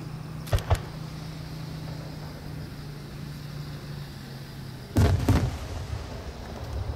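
Large aerial fireworks shells. There are two short, sharp reports about half a second in, then, about five seconds in, a louder cluster of overlapping booms with a rumbling tail as the shells burst.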